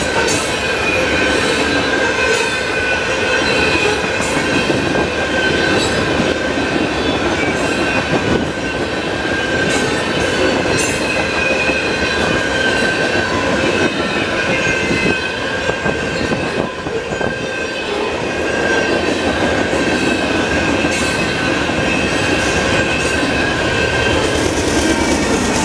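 Freight cars rolling past close by: loud, steady steel-wheel rumble on the rails with a high, wavering squeal from the wheels and repeated sharp clicks as the wheel sets go by.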